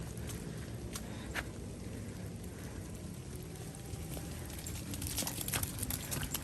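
Rain pattering, with scattered sharp ticks of drops over a steady low rumble; the ticks come thicker in the last second or two.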